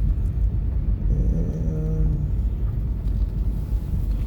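Low steady rumble of a car's engine and road noise heard inside the cabin. A brief humming tone rises over it about a second in.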